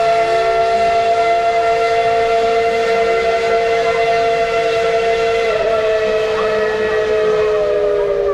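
Steam locomotive's whistle blowing one long, steady blast, several notes sounding together as a chord, dipping slightly in pitch near the end.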